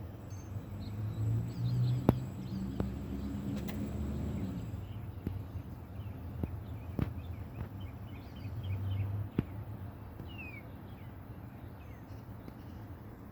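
Songbirds chirping in short, scattered calls over a low rumble that swells twice, with a few sharp clicks, the loudest about two seconds in.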